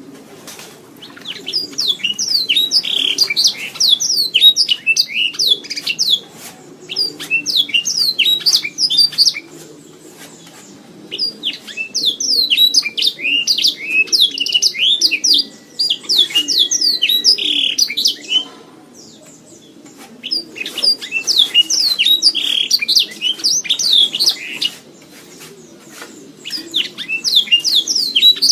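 Domestic canary singing: long bouts of fast trills and twittering notes, broken by pauses of a second or two.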